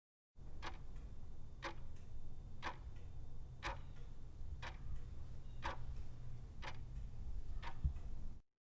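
Clock ticking once a second, eight ticks, over a low steady hum; it starts and stops abruptly.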